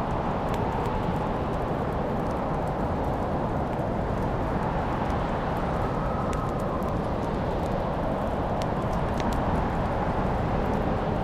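Wood fire crackling in a fireplace: scattered sharp pops and snaps over a steady low rushing sound.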